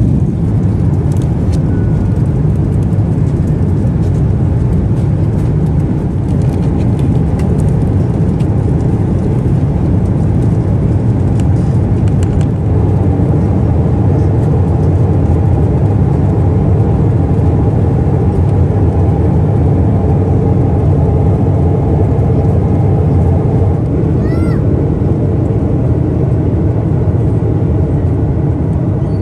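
Steady low drone of a Boeing 777-300ER's cabin, the engines and airflow heard from an economy seat. A short high chirp sounds once about three-quarters of the way through.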